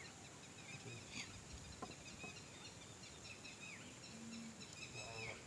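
Faint chirping of small birds: many short calls repeated throughout, with a couple of soft clicks in the middle.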